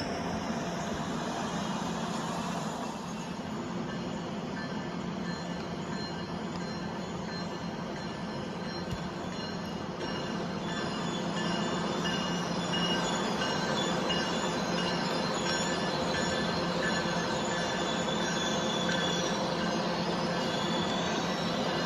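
A train rolling through the station, its steel wheels squealing against the rails over a steady rumble; several high, thin squeal tones grow stronger from about halfway through.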